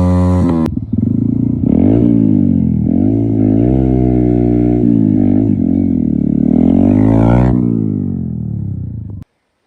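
Motorcycle engine revving up and down repeatedly, then dropping in pitch and stopping abruptly near the end.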